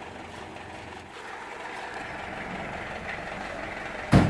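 Steady background rumble and noise, with one sharp knock about four seconds in.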